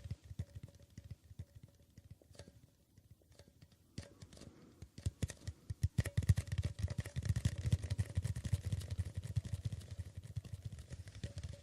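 Rapid tapping with the fingers on a hard object, a fast run of small clicking taps. It thins out to a few quiet taps from about two to four seconds in, then comes back dense and quicker from about six seconds in.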